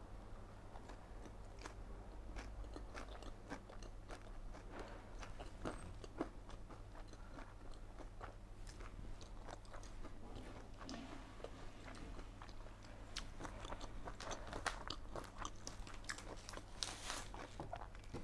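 Close-miked eating sounds: biting into and chewing Vietnamese spring rolls. There are many short clicks and crunches, coming thicker and louder near the end.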